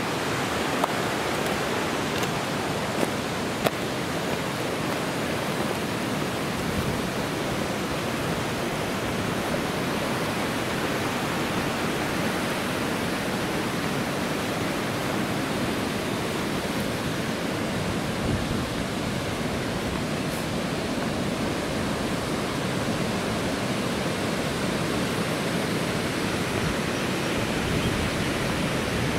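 Waterfall pouring steadily, a constant rush of falling water. A few light knocks come in the first few seconds.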